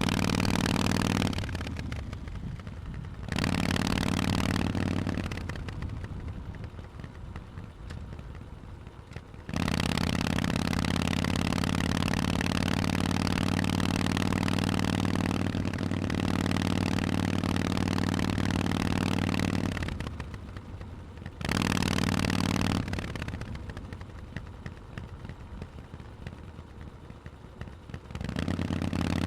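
Harley-Davidson Forty-Eight's V-twin through Vance & Hines exhausts while riding. A steady, loud engine note under throttle drops off sharply four times as the throttle is closed and the bike coasts, then cuts back in suddenly when the throttle is reopened.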